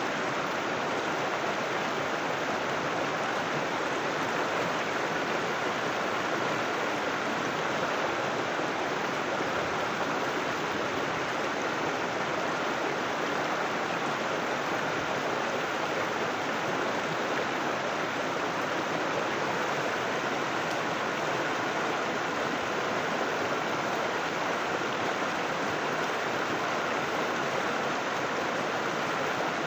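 River water rushing steadily over rocks, a constant even rush with no breaks.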